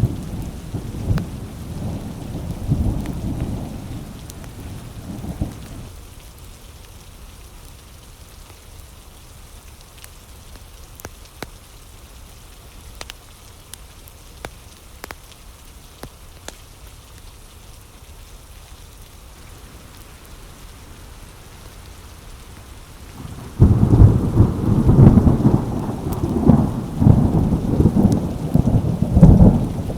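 Thunderstorm: a roll of thunder rumbles and dies away over the first five seconds, leaving steady rain with scattered sharp taps; about 23 seconds in, a fresh thunderclap breaks and rumbles on over the rain.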